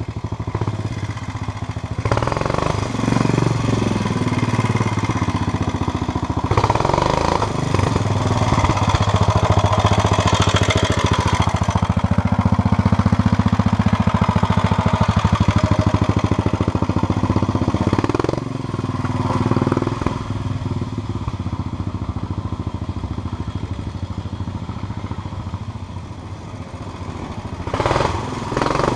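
Vintage trials motorcycle engine pulling at low speed through a trials section, the throttle opened and closed so the revs rise and fall several times.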